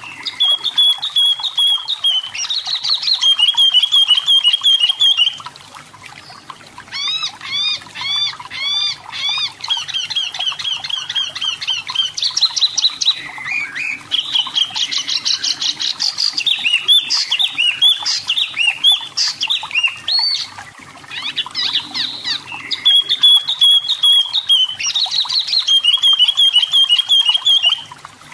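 Wambi mini (tepus lurik) songbird singing: long runs of rapid, repeated high notes and fast trills, in phrases broken by brief pauses.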